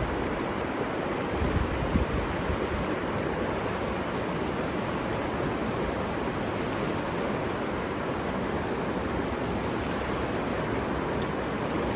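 Steady rushing of a flowing river, with a couple of low bumps about a second and a half in.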